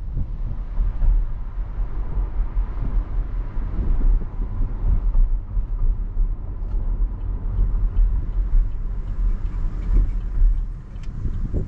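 Chevrolet Camaro on the move: a steady low rumble of engine and road noise that swells and eases a little as it drives.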